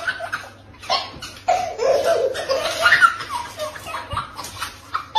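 A person laughing hard in repeated bursts.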